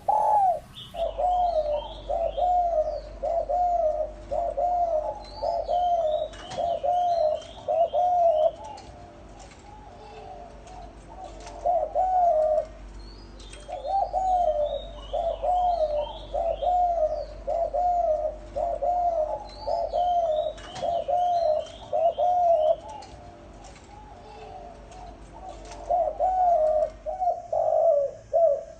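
Female spotted dove cooing in runs of short coos, a little more than one a second, with pauses of a few seconds between the runs. These are the hen's calls that rouse a male to coo. Small birds chirp faintly in higher voices between the coos.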